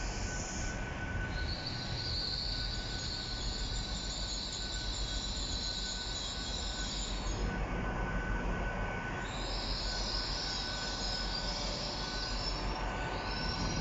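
LNER Class 800 Azuma bi-mode train arriving slowly along the platform, with a steady rumble and a steady high whine. Two long stretches of high-pitched squealing from its wheels come and go, one in the first half and one in the second.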